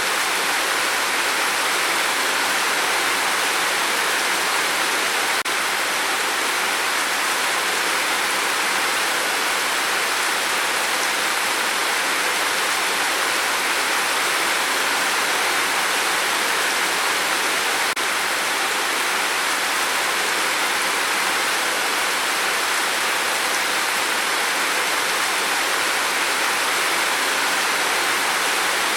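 Steady rain falling on a tin roof: an even, unbroken hiss.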